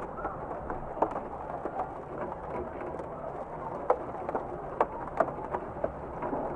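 Steady rainfall with a few sharp, heavy drips landing close by, about a second in and again near four and five seconds.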